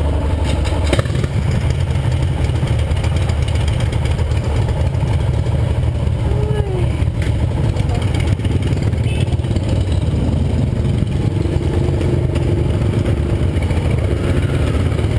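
Yamaha XT 660R motorcycle's single-cylinder four-stroke engine running steadily, a continuous low engine note throughout.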